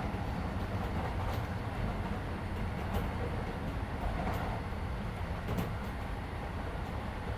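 Interior running noise of a Keisei 3400 series electric train car at speed: a steady low rumble of wheels on rail, with a few sharp clicks scattered through it.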